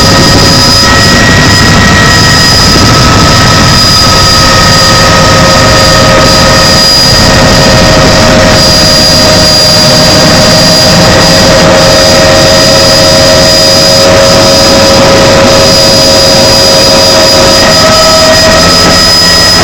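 Helicopter engine and rotor noise, loud and steady, with a high steady whine over it.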